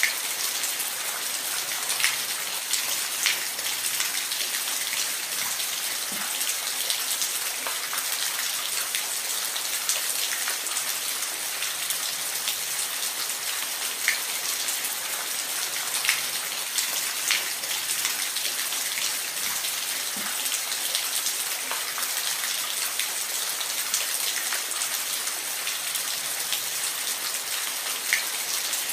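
Falling water hissing steadily and evenly, with scattered sharper drops ticking over it now and then.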